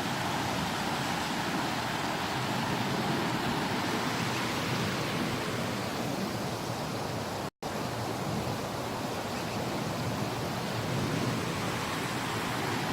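Creek water running with a steady rush, broken by a momentary silent gap about halfway through.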